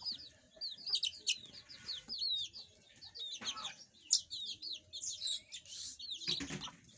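Domestic canary chirping in a run of quick, falling, whistled notes, repeated many times. Two short, louder noisy bursts come midway and near the end.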